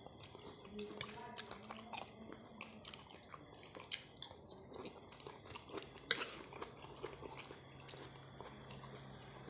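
Someone eating pork-bone curry close to the microphone: chewing and biting, with irregular short clicks and smacks, one louder about six seconds in. A steady low hum runs underneath.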